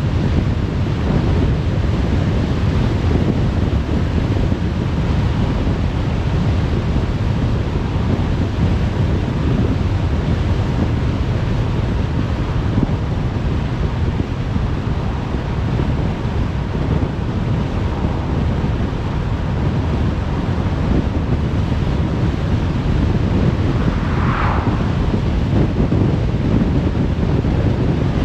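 Steady road noise of a car driving on a motorway: tyre rumble and rushing wind, heaviest in the low end, with a brief higher-pitched sound near the end.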